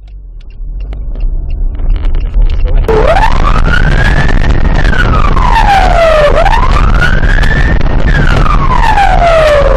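Emergency vehicle siren wailing, starting about three seconds in and sweeping slowly up and down in pitch, twice, over a steady low rumble of road and engine noise.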